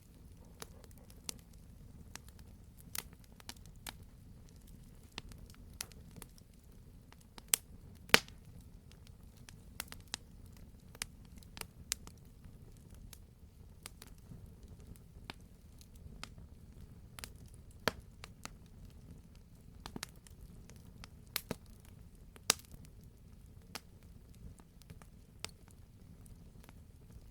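Wood fire burning in a fireplace: a low steady rumble with irregular crackles and occasional sharper pops, the loudest about eight seconds in.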